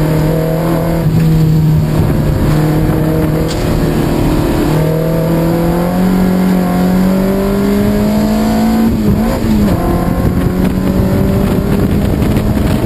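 Lotus Elise S2's Rover K-series four-cylinder engine under load, heard from the open cockpit. It holds a steady note, then revs climb under hard acceleration, with a quick upshift about nine seconds in before it pulls again.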